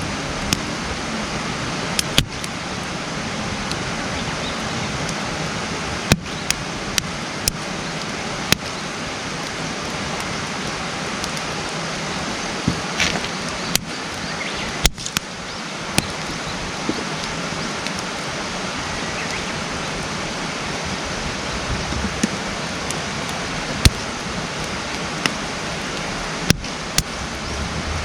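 Wood campfire burning: irregular sharp pops and crackles from the wood over a steady rushing hiss.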